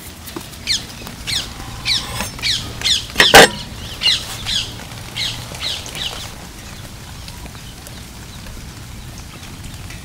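A bird calling in a run of short, falling chirps, about two a second, that stop about six seconds in. A single sharp knock comes about three seconds in.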